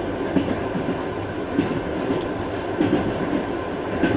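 Inside a moving Trans-Siberian passenger train carriage: the wheels and carriage give a steady running rumble, with a few faint clicks from the track.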